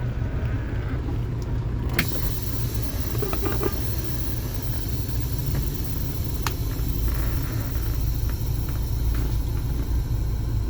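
2019 Western Star 5700 semi truck's diesel engine idling with a steady low rumble. A steady hiss comes in about two seconds in, with a few sharp clicks.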